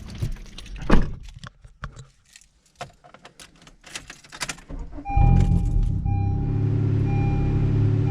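Keys jangling and rattling, then about five seconds in the turbocharged Honda R18 four-cylinder engine starts and runs steadily at idle, with a repeating beep coming and going over it.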